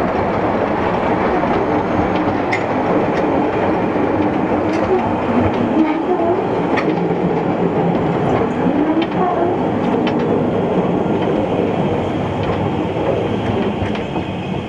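Narrow-gauge railway train running along the track: a steady rumble of wheels and carriages with scattered light clicks.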